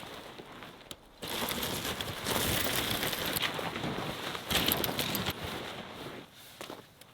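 Tent fabric rustling and crinkling as it is handled, a dense stretch of noise from about a second in that fades out near the end.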